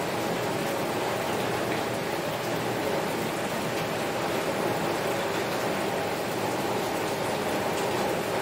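Heavy rain falling steadily on a window, an even wash of sound with no let-up.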